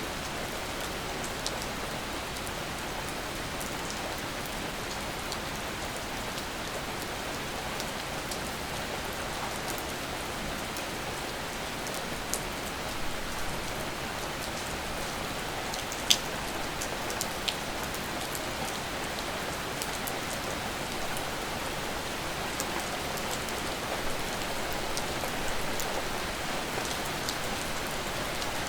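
Steady rain falling, an even hiss with scattered individual drops ticking close by, one sharper drip about sixteen seconds in.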